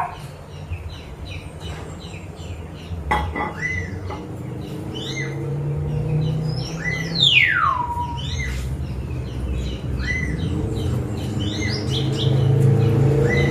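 Birds chirping, with several clear whistles that slide down in pitch. Under them runs a steady low motor hum that grows louder near the end.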